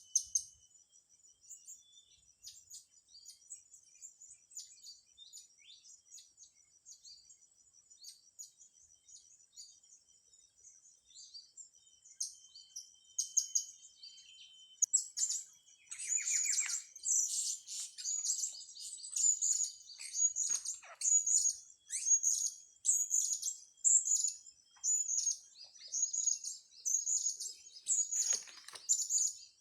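Small bird calling in high, sharp chirps: faint and scattered at first, then loud and rapid from about halfway, more than one chirp a second.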